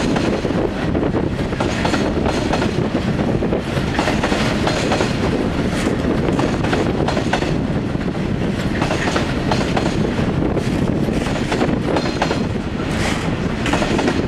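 A freight train's bogie coal hopper wagons rolling past, with a steady rumble of wheels on rail and frequent clicking as they cross the rail joints.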